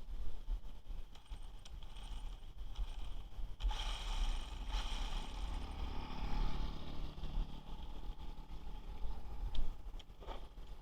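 Brushless-motored 1/10 RC truck running, its motor and gear whine rising about a third of the way in and then fading. Wind is rumbling on the microphone, and there are a few sharp clicks near the end.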